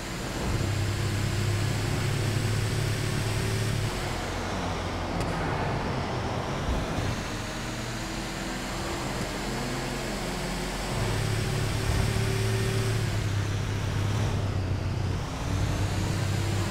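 Motor vehicle engine running with road noise. It gets louder twice for a few seconds.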